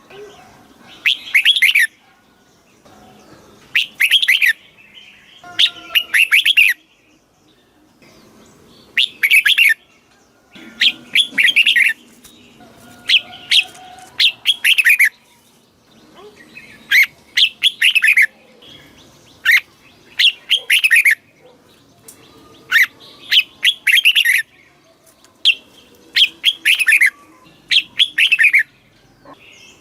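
Red-whiskered bulbul singing: short, loud, clear whistled phrases, each falling in pitch, repeated every one to two seconds, some in quick pairs.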